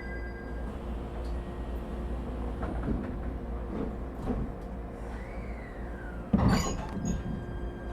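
Inside the passenger cabin of an ET127 series electric train: a steady hum of onboard equipment with a few light knocks, a tone that glides downward about five seconds in, and one loud clunk about six and a half seconds in.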